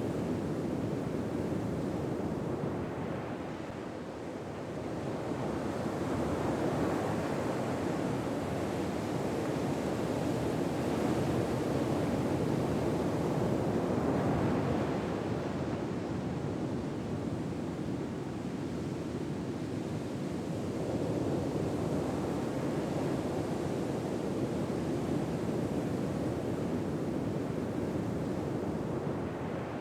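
Ocean waves washing on a shore, a steady surf noise that swells and ebbs slowly, with a new swell every ten seconds or so.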